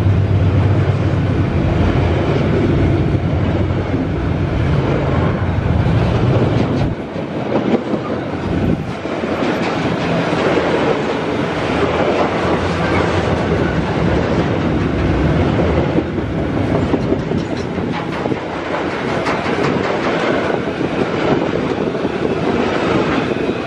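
Loaded freight wagons of a long train rolling past close by: steel wheels clacking and rumbling on the rails with the rattle of the flatcars, steady all through. A low hum under it drops away about seven seconds in.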